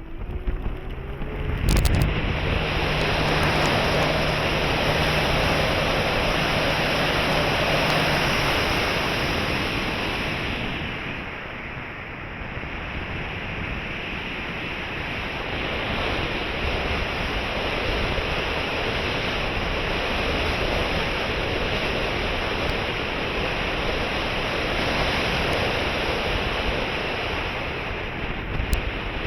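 Wind rushing over the microphone throughout, with the steady hum of a radio-controlled Cessna 150 model's electric motor under it for the first eight seconds or so. A sharp click comes about two seconds in.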